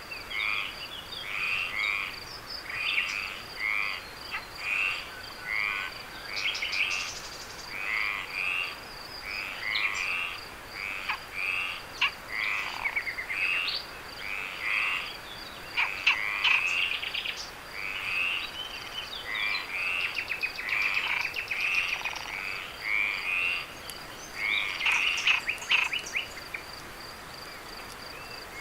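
Frogs calling in a steady chorus of repeated croaks, a little more than one call a second, over a continuous high-pitched insect trill such as crickets.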